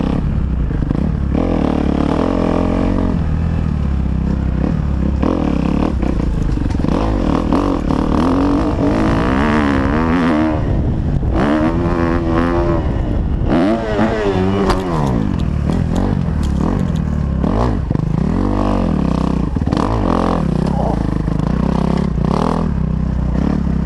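Kawasaki KX250F four-stroke single-cylinder dirt bike engine being ridden hard, revving up and dropping off again and again as the rider works the throttle around the track and into a jump.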